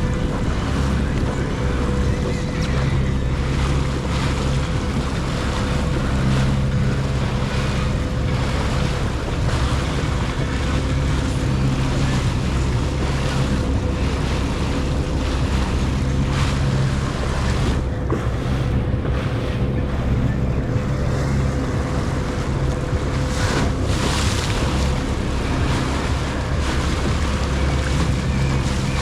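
Jet ski engine running steadily at speed on open water, with a steady whine over the low engine note, and wind and water spray rushing over the microphone.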